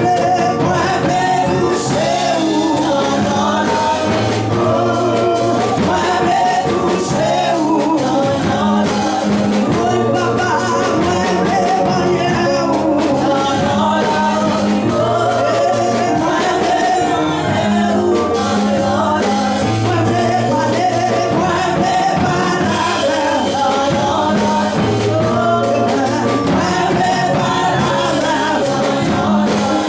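Gospel music: a group of voices singing over a band with bass and drums, loud and steady.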